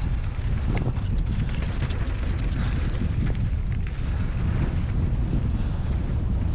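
Wind buffeting the microphone of a camera riding along on a bike, a steady low rumble with a few faint rattles over it.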